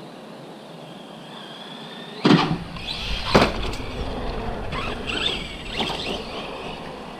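Radio-controlled basher truck's electric motor whining, then two loud thuds about two and three seconds in as it hits the ground. Rough driving noise with short bursts of motor whine follows.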